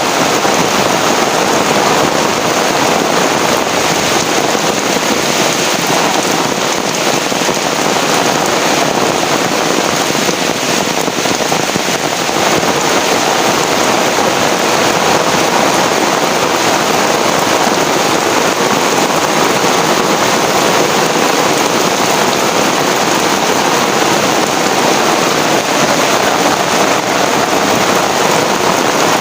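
Heavy rain falling steadily, a dense continuous hiss of rain on surfaces.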